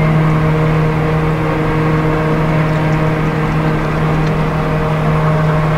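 Steady, unbroken low hum of the cruise ship Mein Schiff 7's engines and machinery as it sails out past the harbour mole, one constant drone with overtones above it.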